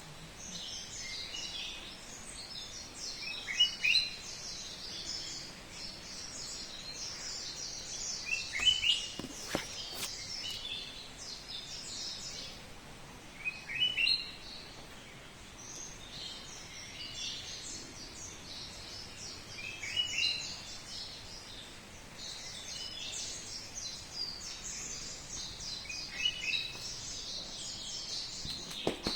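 Many small birds chirping constantly. Over them, one louder call of a few quick notes comes back roughly every five to six seconds.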